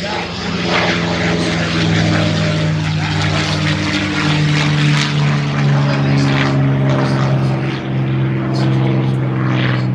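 Propeller airplane flying past with a steady droning engine note that drops in pitch about four seconds in and again near the end.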